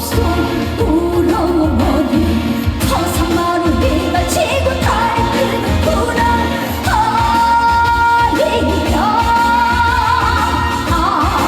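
A woman singing a trot song live with band accompaniment, holding long notes with vibrato over a steady beat.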